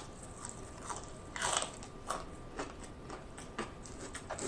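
Chewing and crunching of crispy fried chicken, the breading cracking in a run of separate crunches, the loudest about a second and a half in.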